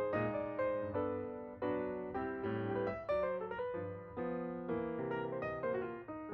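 Background piano music: a gentle piece of repeated chords, each struck note fading before the next.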